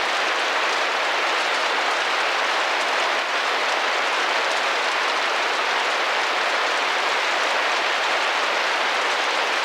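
Steady rain falling and tapping against a window, an even hiss with no separate drops or breaks standing out.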